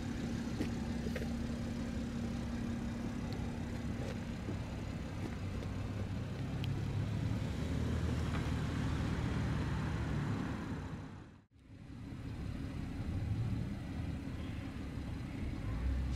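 BMW 540i's 3.0-litre turbocharged inline-six idling, a steady low rumble heard from outside the car. The sound cuts out for a moment about eleven seconds in.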